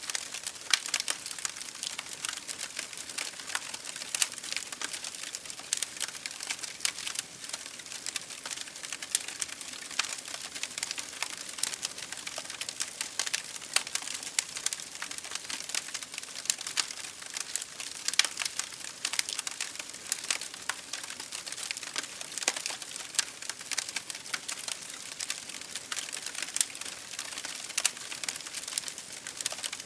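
Wood fire burning in an open fireplace, crackling steadily with dense, irregular sharp pops over a soft hiss.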